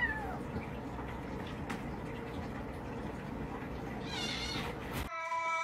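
Domestic cat meowing: a short falling meow at the start and a higher, wavering meow about four seconds in, over a steady background hiss. Near the end the hiss stops abruptly and a long, steady meow begins.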